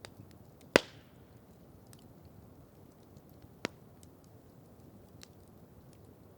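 Campfire crackling: scattered small ticks over a low, steady burning noise, with one loud sharp pop under a second in that trails off in a brief hiss, and a second, smaller pop a little past halfway.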